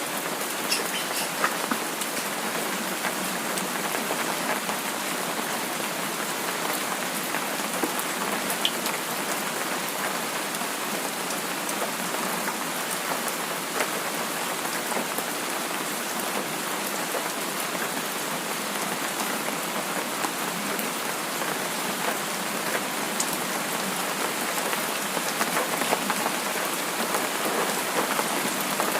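Steady rain falling on a surface, an even hiss with many small scattered drips and patters.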